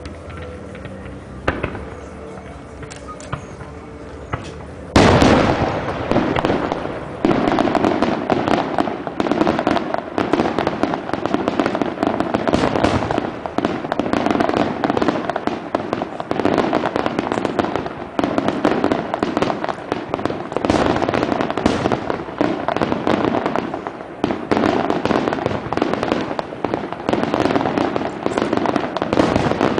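Fireworks display: a single bang about a second and a half in, then a loud burst about five seconds in starts a dense, continuous barrage of shell explosions and crackling.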